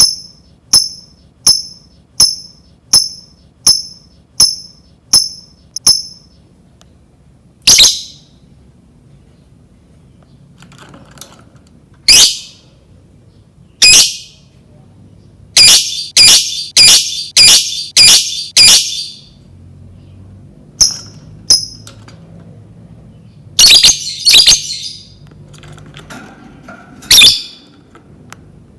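Lovebird giving short, sharp, high-pitched 'ngetik' chirps: an even series of about one and a half a second for the first six seconds, then louder shrill calls, some single and one fast run of about seven in the middle.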